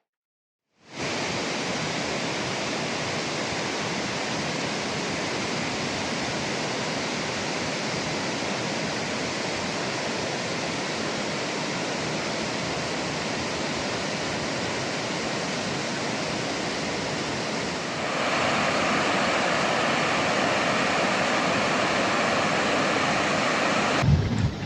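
Heavy rain pouring down in a steady, even hiss that grows louder about 18 seconds in and cuts off abruptly near the end.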